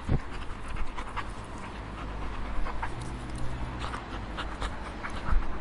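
A dog panting, quick uneven breaths in and out. Two low thumps stand out, one just after the start and one near the end.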